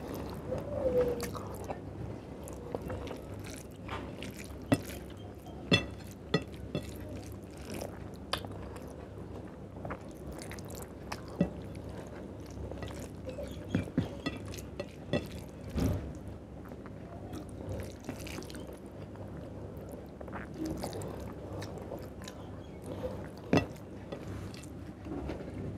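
A man chewing mouthfuls of rice and chicken curry close to the microphone, with wet mouth sounds and sharp clicks scattered irregularly throughout. His fingers squish and mix rice on the plate between mouthfuls.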